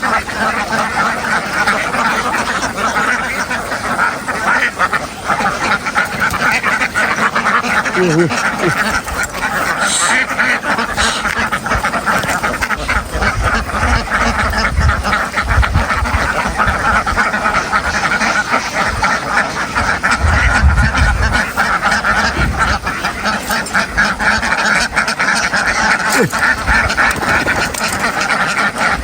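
A large flock of domestic ducks quacking continuously, many birds calling over one another in a dense chatter, with some low rumbling a few times.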